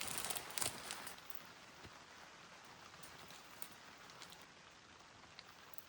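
Faint, steady rain falling on the tent fabric, heard from inside the tent, with scattered light ticks of drops; a little louder in the first second.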